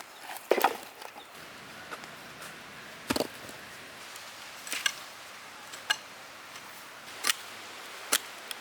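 Sharp chopping strikes, about six of them, spaced irregularly a second or two apart.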